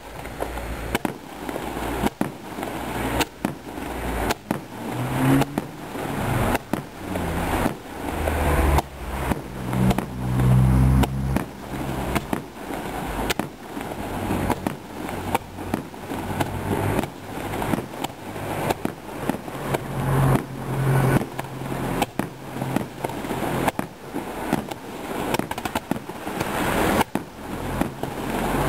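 Aerial firework shells bursting in a continuous string of sharp bangs, about one or two a second. The bangs are heaviest and loudest about ten seconds in.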